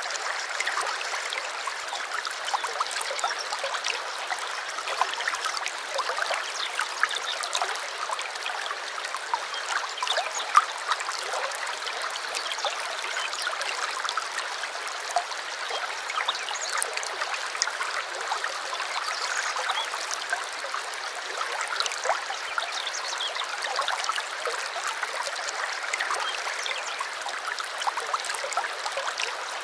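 Small stream flowing: a steady rush of water full of little splashes and trickles, with no deep rumble.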